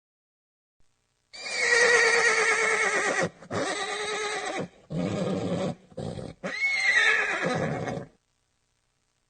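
A horse neighing: a loud, quavering whinny that starts about a second in and runs in several parts broken by short gaps. The last part rises then falls in pitch, and it stops about eight seconds in.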